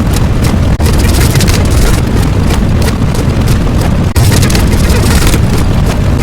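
A loud, continuous rumbling noise with crackle over it, cutting out very briefly about a second in and again about four seconds in.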